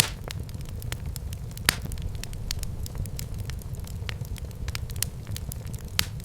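Fire burning in a fireplace, crackling with frequent small pops over a low steady rumble. Two louder snaps stand out, one just under two seconds in and one near the end.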